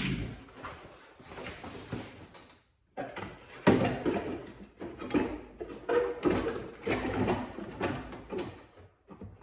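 Irregular scraping, clunking and rattling of a third-gen Camaro blower motor being forced and fitted into its housing, with a few short pauses between bouts.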